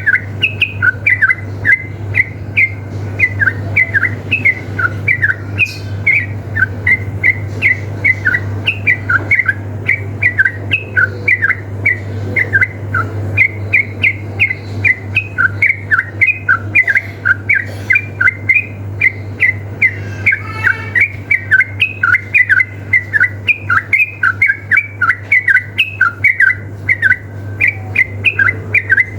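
Yellow-vented bulbul singing a fast, unbroken run of short bubbly chirps, about three to four notes a second: the rapid 'ropel' song of an excited, fighting male.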